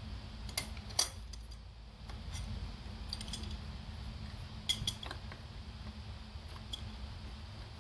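Metal tools and parts clinking and tapping as they are handled, in scattered sharp clicks. The loudest is about a second in, with a quick pair a little before the five-second mark, over a faint steady hum.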